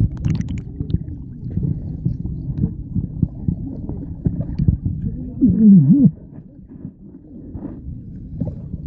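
Muffled underwater sound: water sloshing and knocking against a submerged camera. About five and a half seconds in, a brief, louder wavering low tone rises and falls.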